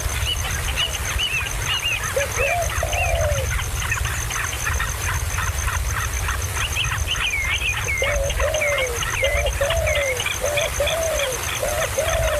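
Birds calling: repeated low, arched calls that come briefly about two seconds in and then keep coming in quick succession from about eight seconds in, with higher, curving chirps throughout.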